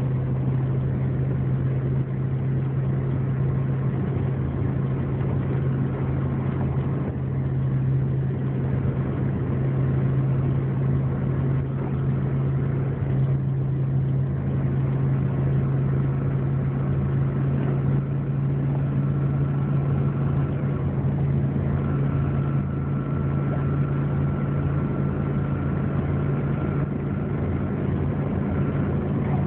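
Steady low drone of a car driving along the highway, engine and road noise heard from inside the cabin. A faint, thin, steady whine comes and goes over the second half.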